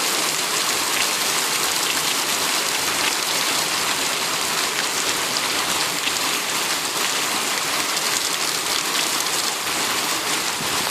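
Steady tropical rain falling: a dense, even hiss of drops.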